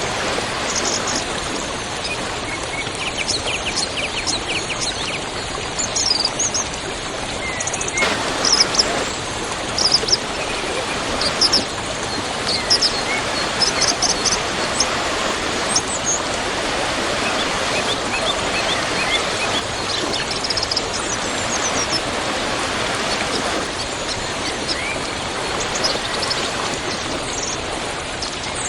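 Waterfall rushing steadily, with small birds chirping and whistling repeatedly over it.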